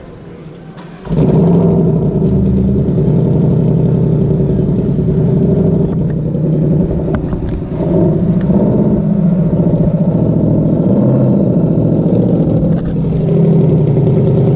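Ford Mustang Bullitt's 5.0-litre V8 exhaust comes in abruptly about a second in, then runs steadily and loud with a few small rises and dips in pitch.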